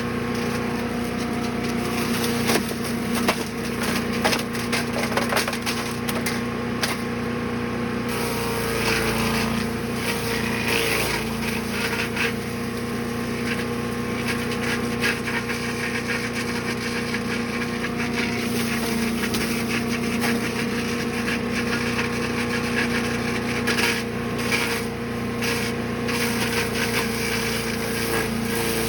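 Brush Master 3-in-1 chipper/shredder's gas engine running at a steady speed while yard debris is fed through, with continual crackling, snapping and rattling as the material is shredded and chipped.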